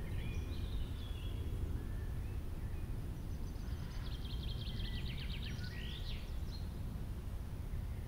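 Songbirds singing over a steady low rumble of outdoor ambience. A few short whistled notes come near the start, and a fast trill of repeated notes about four seconds in ends in a swooping note.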